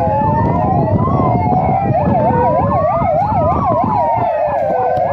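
Several fire engine sirens sounding at once: slow rising-and-falling wails overlap, and about two seconds in one switches to a fast yelp, over a steady low rumble.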